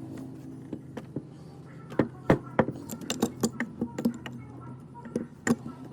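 Irregular metal clinks and knocks, a dozen or so sharp ones in quick succession from about two seconds in, as metal tools and parts are handled over a steady low hum.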